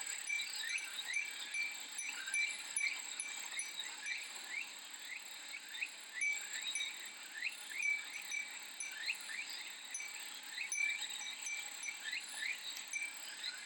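Cicadas chirring in summer, with a steady high-pitched drone and many short, rapidly repeated rising chirps. A Japanese wind chime (furin) tinkles now and then over them.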